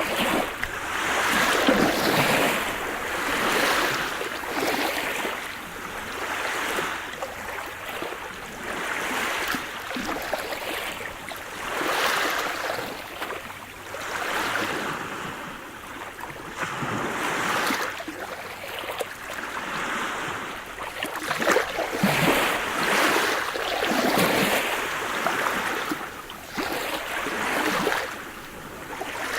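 Sea surf: waves breaking and washing in one after another, the rush of water swelling and ebbing about every two seconds.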